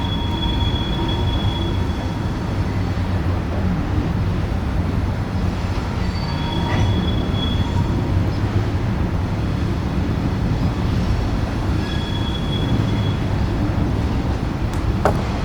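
Coal train's cars rolling with a steady low rumble, with a thin high wheel squeal sounding three times, about six seconds apart.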